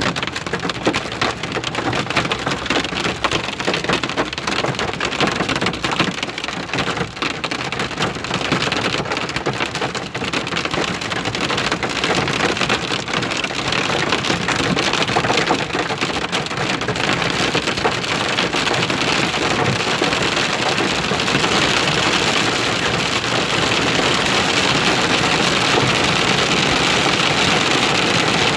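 Hail and rain hitting hard surfaces in a storm. It starts as many sharp separate hits, then from a little past halfway becomes a denser, steadier and slightly louder downpour.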